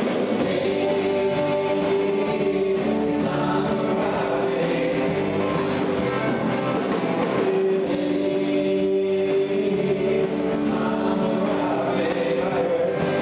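A song with several voices singing long held notes in harmony over a band.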